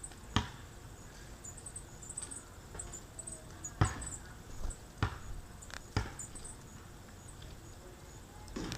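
Birds at a feeder: four sharp knocks spread over several seconds, with faint, short, high chirps in between.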